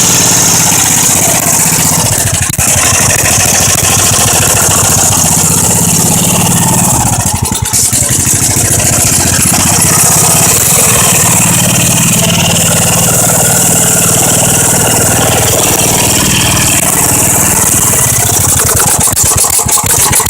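A 1971 Tecumseh single-cylinder small engine running loud and steady, its firing a rapid stream of pulses. It sags briefly about seven seconds in, then picks back up.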